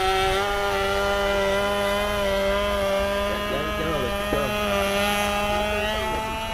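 Radio-control model airplane engine running steadily at high revs, its pitch rising slightly in the second half, with faint voices in the background.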